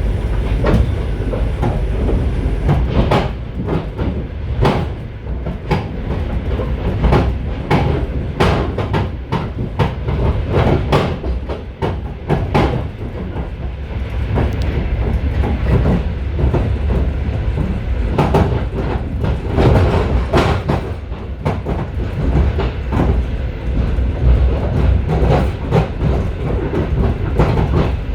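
Moving passenger train car heard from inside its vestibule: steady wheel and running rumble with many sharp clicks and knocks from the wheels over rail joints.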